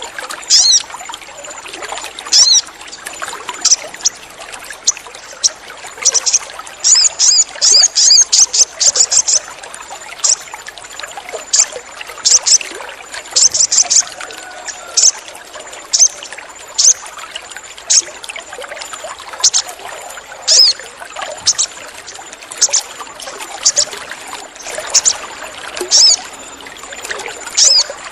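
Sogon bird calling: short, sharp, high-pitched chirps, some single and some in quick runs of several, the densest run coming about six to nine seconds in. They sit over a steady rushing background noise.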